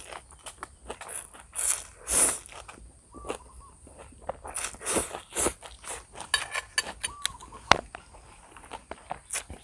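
Close-up eating sounds of instant noodles with sausage: irregular noisy slurps and chewing, with a run of small clicks partway through.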